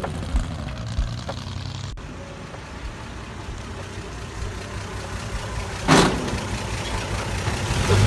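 1941 Chevrolet pickup's inline-six engine idling with a low, steady hum, and a short loud whoosh about six seconds in.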